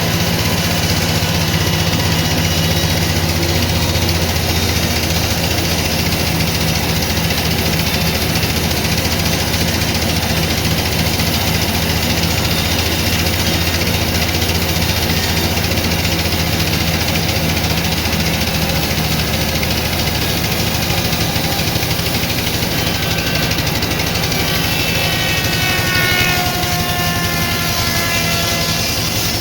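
Sawmill machinery running steadily: a constant loud noise over a low engine hum that fades about two-thirds of the way through. Near the end a high whine falls slightly in pitch.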